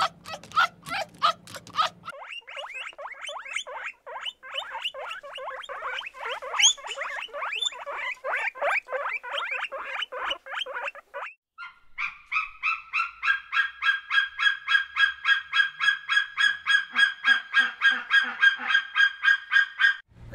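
Geese honking in quick repeated calls, several a second. The calls change abruptly about two seconds in and again past the halfway point, ending in a very regular run of steady-pitched honks about three a second.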